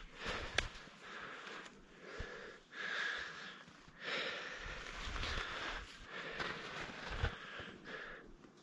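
Skis sliding and scraping over snow, a hiss that comes in surges about a second apart, as with a run of turns.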